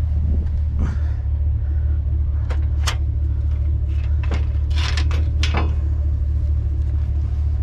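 Truck engine running with a steady low rumble, with a handful of sharp clanks and rattles in the middle stretch.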